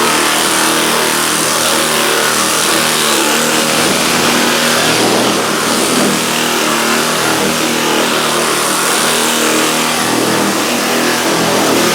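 Pneumatic straight-line air file sander with 40-grit sticky paper running steadily, a loud continuous hiss and buzz.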